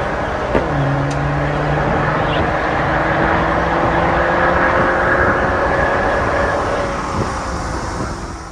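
VW Tiguan 330TSI's EA888 turbocharged four-cylinder through an MS-R valved cat-back exhaust, driving under load. The pitch drops at a gear change about half a second in, then climbs slowly as the car accelerates, and the sound fades out near the end.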